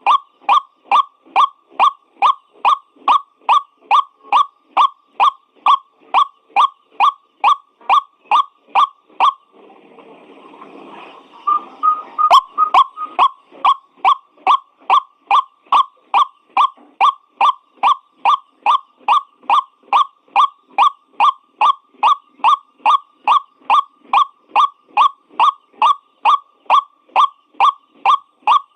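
White-breasted waterhen (ruak-ruak) calls, one pitched note repeated about twice a second as a lure call. About ten seconds in the run breaks for a couple of seconds into a rougher, noisier stretch that ends in a sharp click, then the steady calling resumes.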